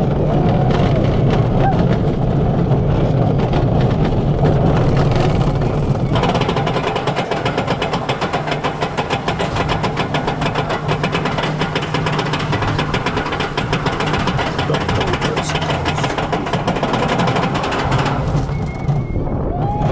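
Roller coaster car rumbling along its track, with a fast, even rattling clatter from about six seconds in until near the end.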